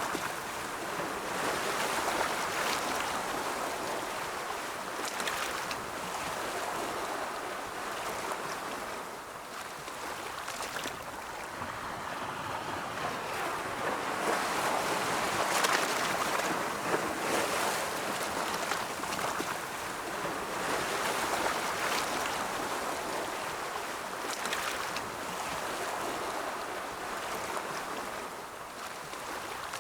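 Ocean surf: waves washing in and out in a continuous hiss that swells and fades every few seconds, loudest about halfway through.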